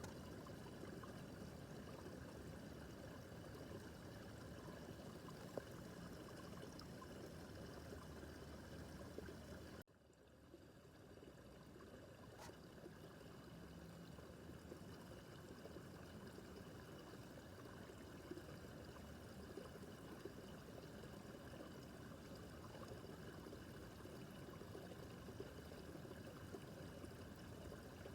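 Small brook babbling steadily over stones. About ten seconds in, the sound cuts out abruptly and fades back in over the next few seconds.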